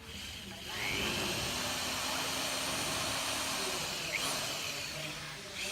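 A power tool's motor spinning up and running steadily with a loud whirring hiss, pitch briefly rising as it starts, then easing off near the end.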